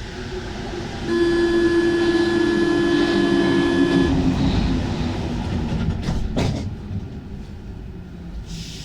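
Paris Métro MP 05 train sounding a loud, steady signal tone with many overtones for about three seconds, over the train's rumble. A couple of sharp clacks follow about six seconds in.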